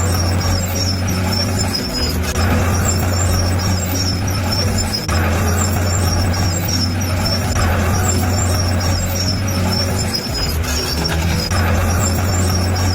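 Shantui bulldozer's diesel engine running, its deep drone stepping up and down every couple of seconds.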